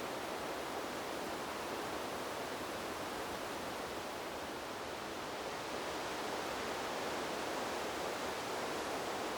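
Wind blowing through trees: a steady, even rushing hiss that swells slightly about six seconds in.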